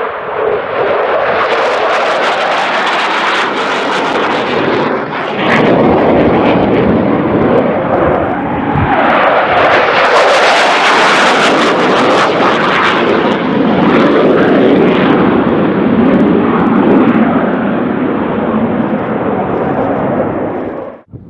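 Jet roar of a low-flying F-15 Eagle fighter's twin turbofan engines. The roar rises and swells, is loudest and brightest about halfway through, then cuts off suddenly near the end.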